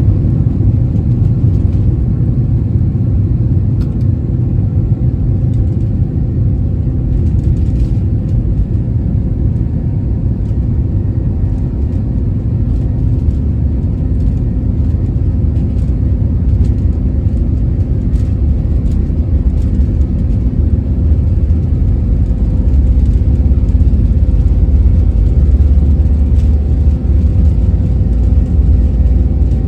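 Airbus A321 jet engines running, heard as a steady low rumble with a constant hum over it, growing a little louder in the last few seconds.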